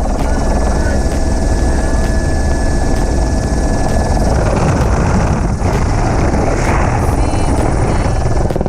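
Helicopter running, with loud, steady rotor and engine noise.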